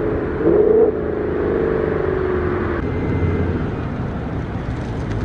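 Ford Mustang GT's V8 through an H-pipe exhaust with stock mufflers, running on the road. Its note slowly falls as it eases off, with a brief louder rise about half a second in, then settles to a lower, steadier sound about three seconds in.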